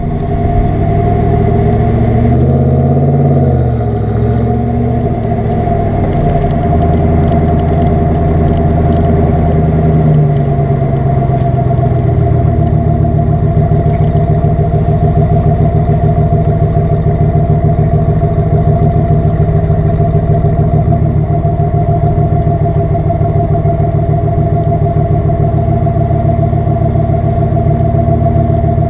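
Ram pickup truck's exhaust while driving: the engine note rises and falls in the first few seconds and again around ten seconds in, with some light rattling ticks in between, then settles into a steady cruising drone.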